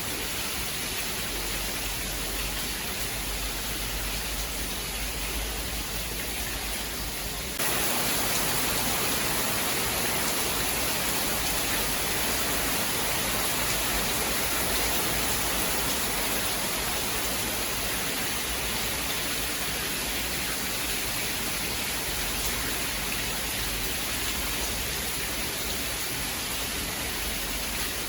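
Steady hiss of heavy rain with no thunder claps. About seven and a half seconds in it jumps suddenly louder and brighter, then runs on evenly.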